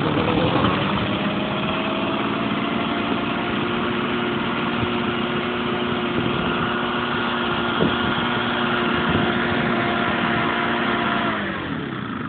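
Tanaka 505 backpack leaf blower's two-stroke engine running steadily just after a cold start on the fourth pull. Its pitch climbs a little in the first second, holds, then drops with the level about eleven seconds in.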